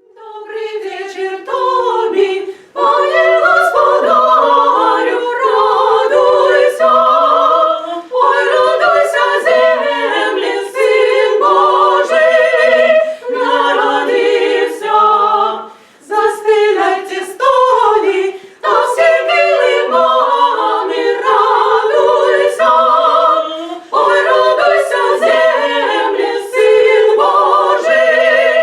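A choir singing unaccompanied, in sung phrases broken by short pauses.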